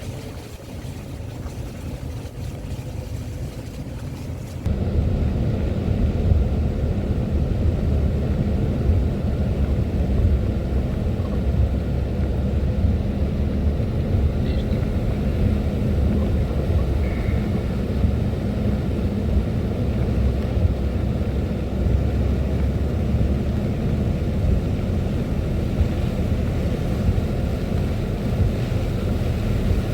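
Vehicle driving: a steady low rumble of engine and road noise, which suddenly grows louder about five seconds in and then holds steady.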